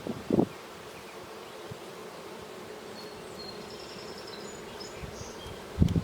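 Honeybees buzzing steadily over an open hive. There is a brief knock just after the start and a louder thump near the end.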